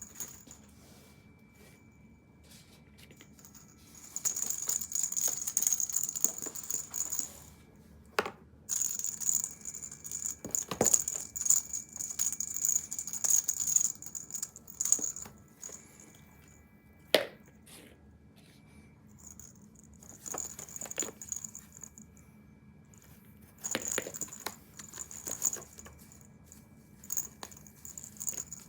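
A cat teaser toy jingling and rattling in several bursts as a cat plays with it, with a few sharp clicks between them.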